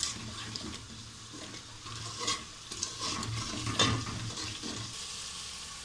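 Masala of onion, tomato and spices frying in oil in a metal pot, with a steady sizzle, stirred with a metal spoon; a few spoon scrapes against the pot stand out. The masala has reached the fried-down (bhuna) stage.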